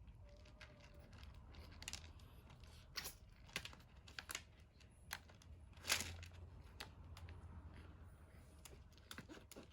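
Scattered light clicks and crinkles at an irregular pace, with one louder click about six seconds in.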